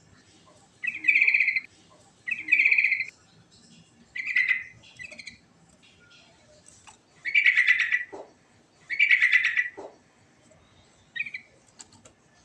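Yellow-vented bulbul (trucukan) singing: a string of about seven short, bubbling, rattly phrases with pauses of a second or so between them.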